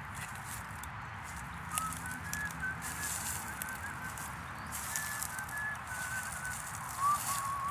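A bird calling: a run of short, high chirping notes that comes in about two seconds in and grows loudest near the end, over a steady low background rumble.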